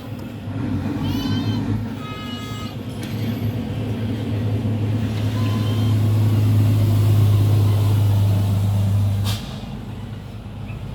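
Mitsubishi 4D56 diesel engine being started and running just after its fuel system was bled with the hand primer pump: a steady low hum that builds, then drops off sharply with a click about nine seconds in.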